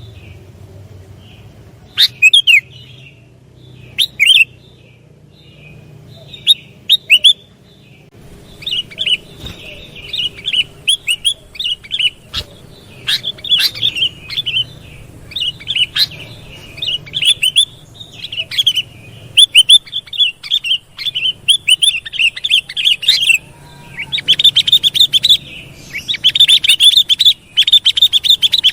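Sooty-headed bulbul calling in quick chirping phrases. The calls are sparse at first, become nearly continuous from about eight seconds in, and grow denser and louder near the end.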